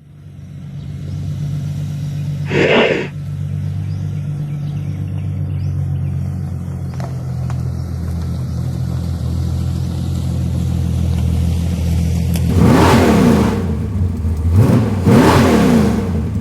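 Car engine running steadily, with a short sharp burst about three seconds in, then revved hard twice near the end.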